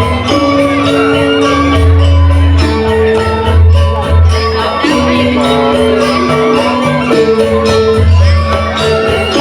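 Balinese gamelan music playing for a dance: metal keyed instruments holding melody notes that step from pitch to pitch over a fast, even run of bright metallic strikes, with deep low notes sounding again and again.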